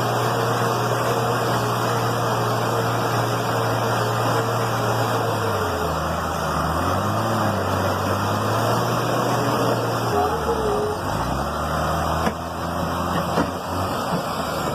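An engine running steadily, its pitch sagging and then climbing back about six seconds in and again around ten seconds in.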